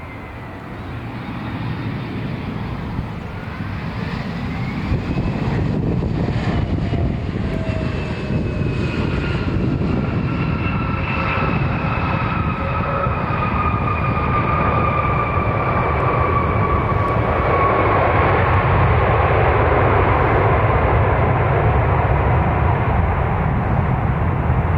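Jet airliner's engines growing steadily louder as it passes, a deep rushing roar with a high whine that slowly falls in pitch.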